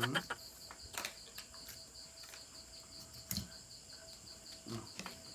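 Insects, crickets by the sound of it, chirping in a steady, even pulse of about four or five chirps a second, with a few soft clicks and light knocks now and then.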